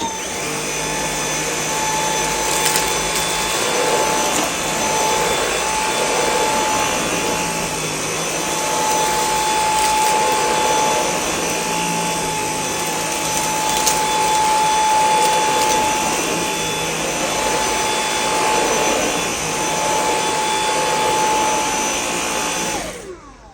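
Dyson V8 Extra cordless vacuum running on its normal power setting with a steady whine, picking up dirt spread on the floor, with a few sharp ticks along the way. It is switched on at the start and winds down with a falling pitch just before the end. The owner calls it very quiet.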